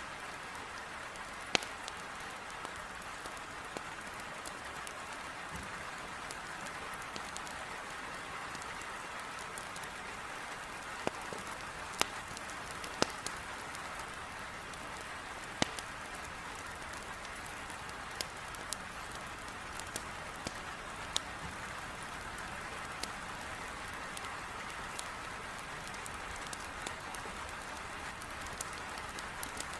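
Heavy rain beating on a window, a steady even hiss, with a wood fire in a fireplace crackling through it in about ten sharp, scattered pops.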